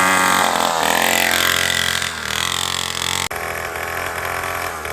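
Dirt bike engine revving and falling back, then running at a steadier low idle after an abrupt cut about three seconds in.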